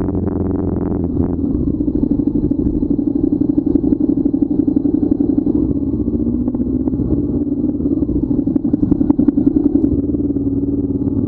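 Motorcycle engine running steadily under way, with a fast, even pulse and a slight rise in pitch about halfway through.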